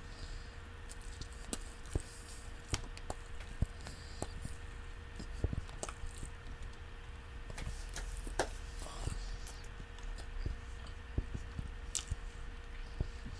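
A person chewing bites of a turkey sandwich on bread, close to the microphone, with scattered small mouth clicks throughout, over a faint steady hum.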